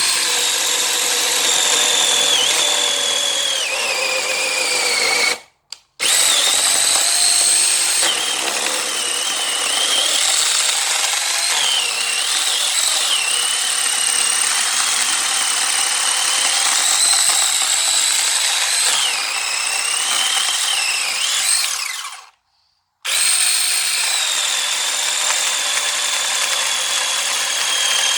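Battery-powered 21-volt mini chainsaw running at full speed and cutting through wood, a loud steady electric whine whose pitch sags and wavers as the chain bites. It cuts out twice, briefly, and starts again.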